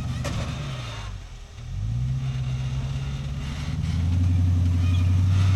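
Off-road rock crawler's engine revving as it climbs a rock section. It eases off briefly about a second in, then builds again and is loudest near the end.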